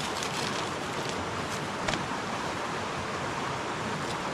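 Steady rush of flowing river water, with a single sharp click about two seconds in.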